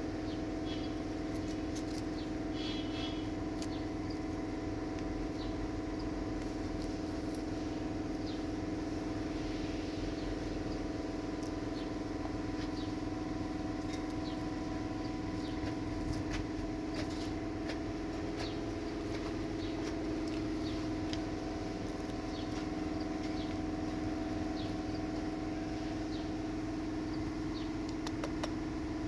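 Steady mechanical hum holding several even tones, with scattered short high squeaks and clicks over it.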